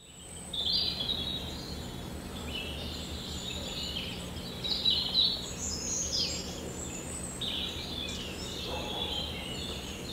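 Birds chirping and calling, many short overlapping calls over a low, steady outdoor background noise, fading in at the start.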